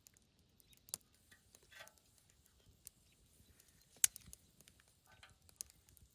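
A few faint, scattered clicks and knocks, the loudest one about four seconds in.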